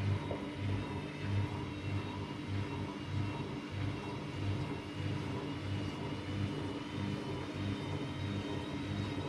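AEG Lavamat Turbo washer-dryer running through a wash programme: its motor and drum give a steady low hum that throbs about one and a half times a second, with a faint whine above it.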